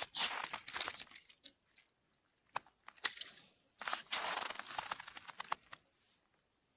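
Crunching of snow and ice in two bursts, with a few sharp clicks between them.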